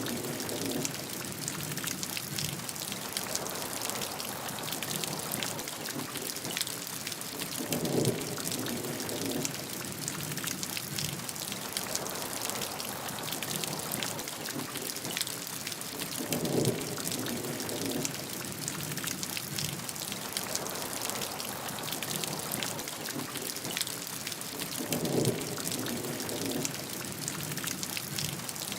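Steady rain with a dense patter of drops. A short, louder, lower swell comes about every eight seconds, three times.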